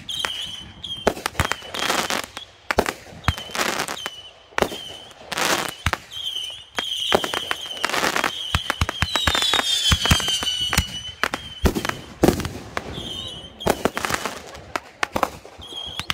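Consumer fireworks going off in quick succession: a dense run of sharp bangs and crackling bursts, mixed with high whistles. One longer whistle falls in pitch about two-thirds of the way through.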